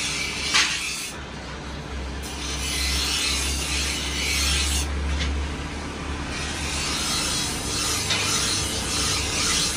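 Steady abrasive rubbing of a rusty knife's steel being sanded or filed, with a sharp click about half a second in.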